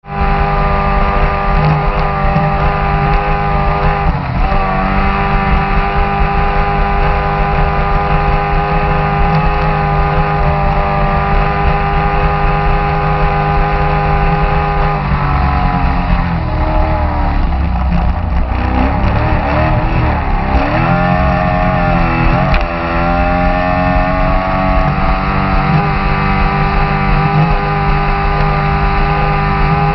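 Race boat's engine running hard at a high steady pitch, heard from on board. About halfway through the pitch drops and wavers for several seconds as the throttle eases, then climbs back to full speed.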